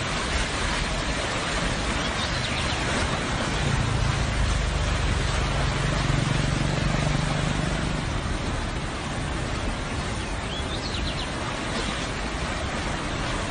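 Steady rushing water noise of heavy rain or floodwater, with a low steady hum from about four to eight seconds in.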